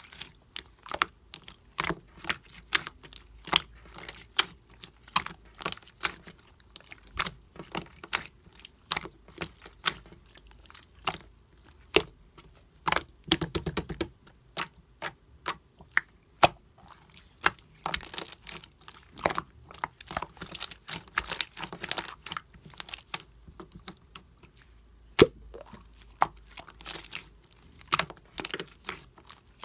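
Clear slime being squeezed and pressed by hand, giving an irregular run of sharp sticky clicks and pops, several a second.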